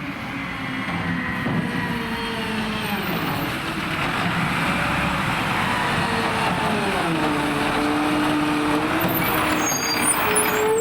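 Mack LR refuse truck with a McNeilus ZR body, its diesel engine running with its pitch shifting up and down several times.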